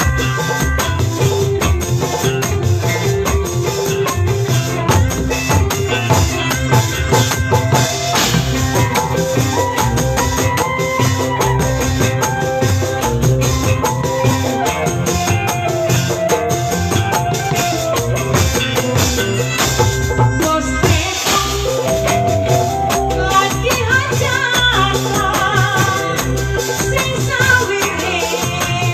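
Live band music with a hand-played tambourine jingling along over drums, heavy bass and a melody line.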